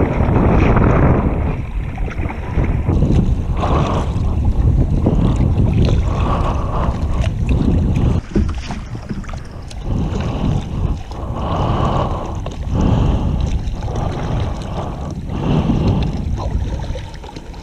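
Strong wind buffeting the microphone in a gusting roar, with water splashing and sloshing around a kayak on a rough sea.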